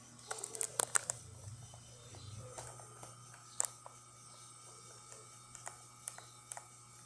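Alex Duetto espresso machine running while pulling a shot: a steady low pump hum, with a cluster of sharp clicks and knocks in the first second and scattered light ticks after. A thin steady tone comes in about two and a half seconds in.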